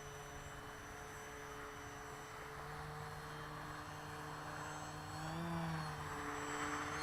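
Electric motor and propeller of a Twisted Hobbies Crack Pitts RC aerobatic plane running in flight, a steady hum with a brief rise and fall in pitch about five and a half seconds in.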